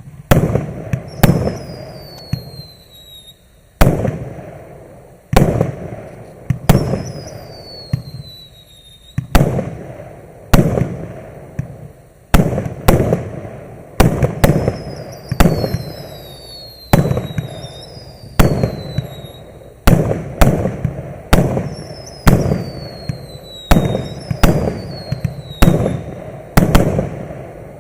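A MAXSEM "Wind" MC134 100-shot firework cake firing: loud sharp bangs about every second and a half, each fading away. Several shots trail a high falling whistle.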